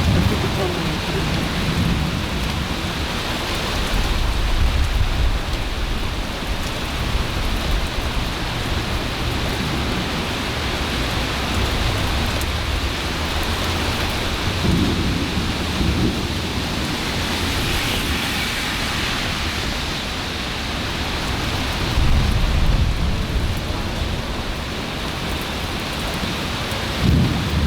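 Steady rain falling during a thunderstorm, with thunder rumbling low underneath and swelling several times.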